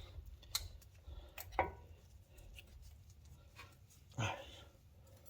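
Faint metallic clicks and knocks of brake hardware being handled: front brake caliper parts, clips and guide pins. There are a few sharp clicks in the first two seconds and one louder short sound about four seconds in.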